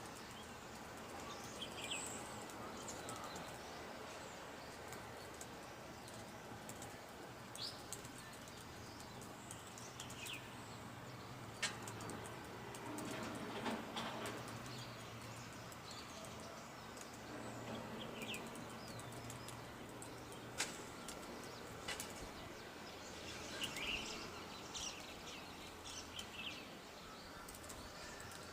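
Faint outdoor ambience: small birds chirping in short, scattered calls. A few sharp clicks and a low steady hum sit underneath.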